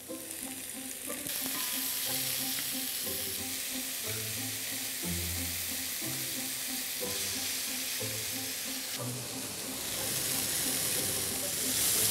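Diced chicken and onions sizzling in a hot frying pan on an induction hob's high-heat zone, stirred with a wooden spatula. The sizzle swells about a second in as the raw chicken goes into the pan. Background music with a steady bass pattern plays underneath.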